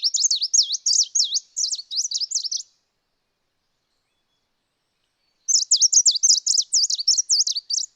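Bright green warbler calling: two runs of rapid, high, sharp notes, each about three seconds long, with a silent gap of about three seconds between them.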